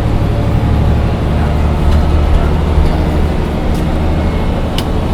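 Mercedes-Benz O405 N1 low-floor city bus heard from inside while driving: a steady low engine drone with road noise, and a few sharp rattles from the cabin, typical of this model's hard suspension.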